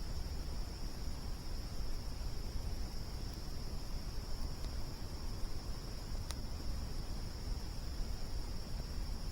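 Campfire burning, with one sharp crackle about six seconds in and a fainter one shortly before, over crickets chirring steadily and a low steady rumble.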